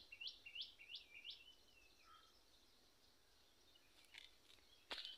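A small bird calling a quick run of about five short, sharply rising high notes in the first second and a half, then only faint background. A single sharp knock near the end.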